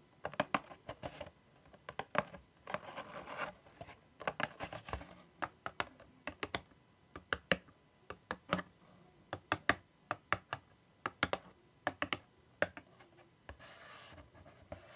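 ASMR tapping and scratching: many quick separate taps in an uneven rhythm, broken by short scratching strokes, with a longer scratching sweep near the end.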